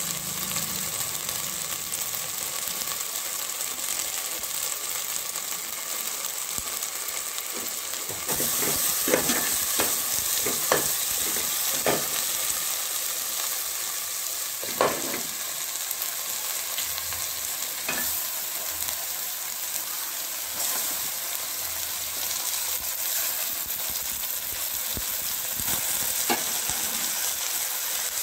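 Food frying in hot oil in a metal pot, with a steady sizzle that grows louder about a third of the way in. A stirring spoon scrapes and knocks against the pot a few times.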